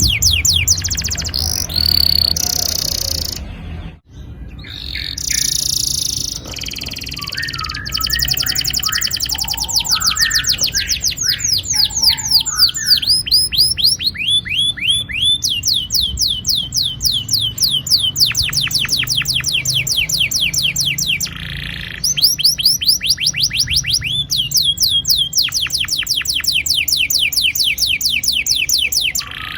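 Domestic canary singing long rolling trills: fast runs of high notes, each sweeping downward, repeated many times a second. The song breaks off abruptly for a moment about four seconds in, then resumes with a few slower, lower notes before the fast trills return.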